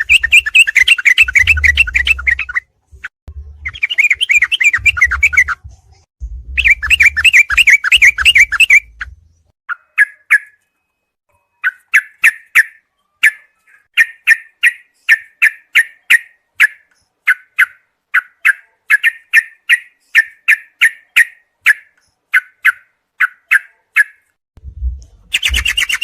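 Recorded songbird song played as bird-training 'masteran': fast, dense warbling phrases in the first nine seconds, then a long run of short separate chirps, about two a second, with the warbling returning near the end. A low hum sits under the warbling phrases.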